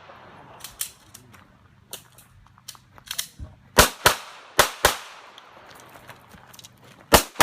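Smith & Wesson M&P 9mm pistol fired in quick pairs: two double-taps about four seconds in and another pair near the end. Several fainter sharp cracks come in the first three seconds.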